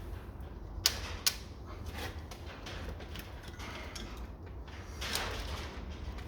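Workshop handling noises as valves are removed from a Ford OHC Pinto cylinder head: two sharp metallic clicks about a second in, then a short scraping rustle near the end, over a steady low rumble.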